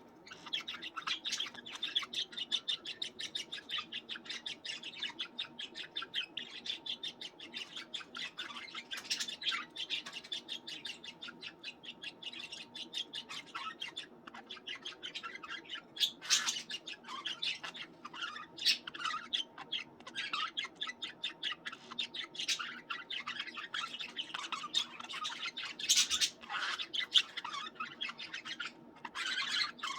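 Several pet budgerigars chattering and chirping rapidly and continuously, with a few louder squawks.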